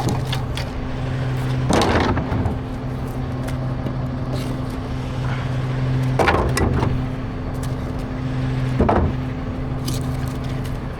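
Garbage truck engine running with a steady low hum, broken by three short noisy crashes about two, six and nine seconds in.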